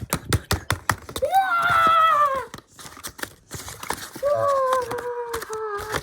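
A quick run of sharp clicks and rattles, like small plastic pieces being handled, then two long high-pitched voice-like tones, each held and sliding down in pitch toward its end.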